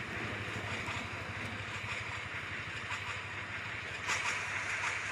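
Small electric motor running with a steady whirring hum, a little louder near the end.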